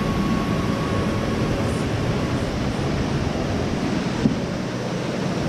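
Steady rushing of a waterfall, with one brief knock about four seconds in.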